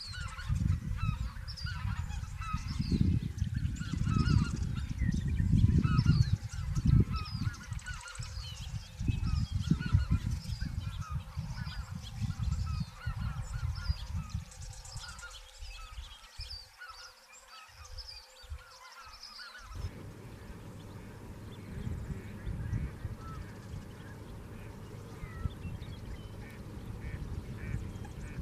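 A large flock of geese honking, many overlapping calls at once, thinning out after the first two thirds. Gusts of wind buffet the microphone through the first half.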